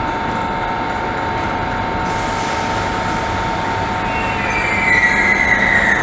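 Class 314 electric train running with a steady hum. From about four seconds in, the wheels squeal in a high, slightly falling tone, loudest near the end.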